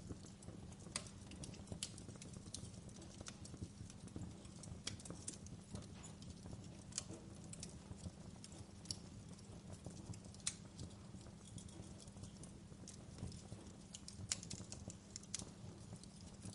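Fire in a fireplace crackling: irregular sharp pops and snaps, a few a second, over a steady low rumble of the flames.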